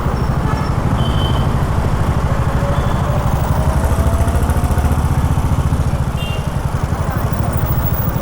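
Honda H'ness CB350's air-cooled single-cylinder engine running while riding, its exhaust beats coming in a steady, even pulse, easing slightly about six seconds in.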